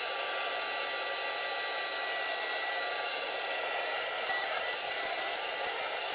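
A heat gun blowing steadily: a continuous rush of hot air with a faint steady whine from its fan. It is heating the iPad's glass to loosen the adhesive under the digitizer.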